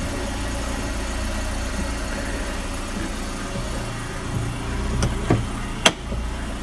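Car engine idling steadily with a low hum. Near the end come a couple of soft knocks and then one sharp click.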